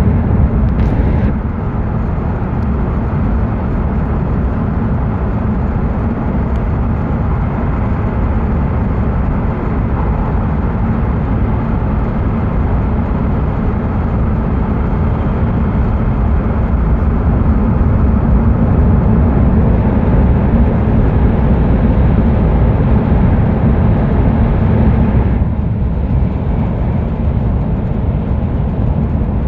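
Running noise of a Hokuriku Shinkansen train at speed, heard from inside the passenger cabin: a steady deep rumble with a rushing hiss over it. The sound drops slightly about a second in, and it turns duller again near the end.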